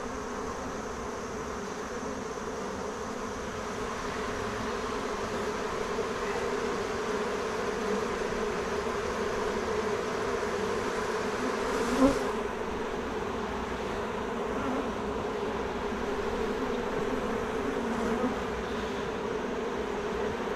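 Many honeybees buzzing steadily from an open hive as a dense, even hum, with one sharp knock about halfway through.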